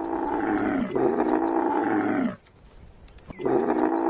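Camel calls: long, loud groaning bellows, each dropping in pitch at its end, two back to back and then, after a pause of about a second, another.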